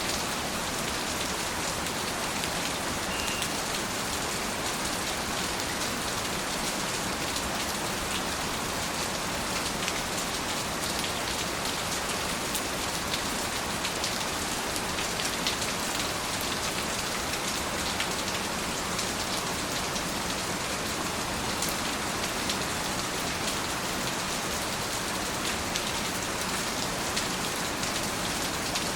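Steady rain falling, a continuous even hiss with many small drop ticks on a surface.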